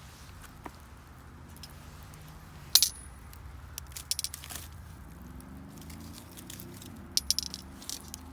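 Garden wood fire burning with sharp pops: one loud crack about three seconds in, then small clusters of pops near the middle and near the end. A low steady hum sits underneath, changing pitch about halfway through.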